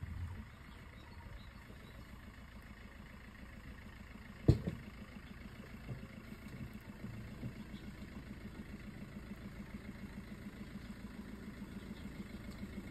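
Car engine idling steadily, with one sharp knock about four and a half seconds in.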